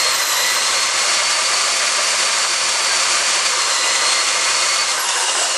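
Small electric motor, as in a power tool, whining at a high pitch. It spins up, runs steadily for about five seconds, and winds down near the end.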